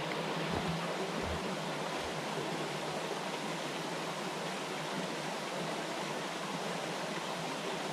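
Steady rushing water, an even hiss with no change.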